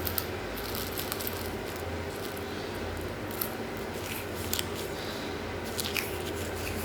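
Water and foam stirring in a bubble bath, with soft squishing and scattered small crackles and pops, over a steady low hum.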